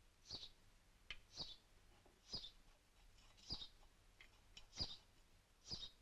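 Baby bird peeping: six short, high chirps, about one a second, with a few faint clicks in between.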